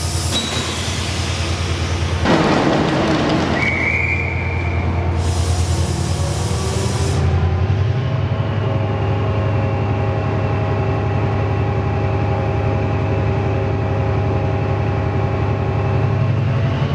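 A train standing with its power unit running steadily. Air hisses out in bursts, once about two seconds in and again in a high hiss from about five to seven seconds in.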